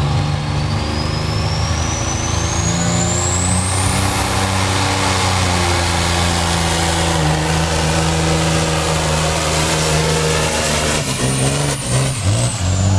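Diesel semi truck engine pulling hard under load, with a turbocharger whistle that rises steadily over the first few seconds. Near the end the engine note breaks up and the whistle falls away as the truck comes off the throttle.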